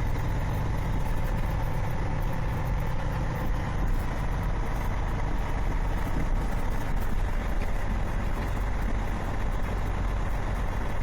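Semi-truck engine running steadily, a continuous low drone with road noise.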